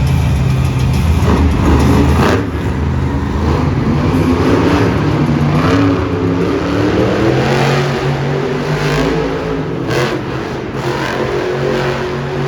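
Monster truck engine revving hard, its pitch rising and falling as the truck spins and drives, with a couple of sharp knocks, one about two seconds in and one near ten seconds.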